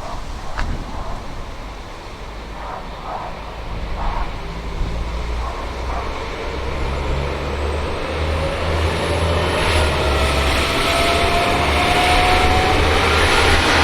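Diesel train's engine running under load, its deep rumble growing louder while a whine rises slowly in pitch as the train gathers speed.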